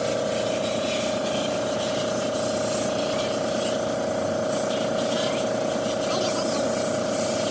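A machine or power tool running steadily: a constant whine with a hiss over it.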